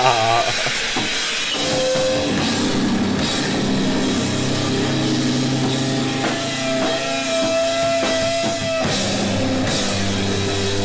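Live noise rock from a guitar-and-drums duo: a distorted Telecaster electric guitar holding long droning notes over a drum kit with crashing cymbals.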